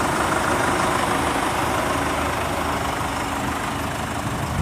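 2006 Jeep Liberty CRD's 2.8-litre four-cylinder turbodiesel engine idling steadily.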